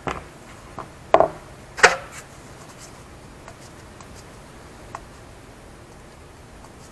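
A few short knocks and clicks of hand work on the furnace forms. The two loudest are sharp knocks a little over half a second apart, about a second in. Then it goes quiet apart from one faint click.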